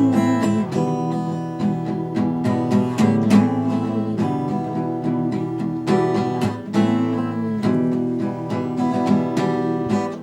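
Acoustic guitar strumming and picking chords in a steady rhythm, the instrumental close of a song with no singing.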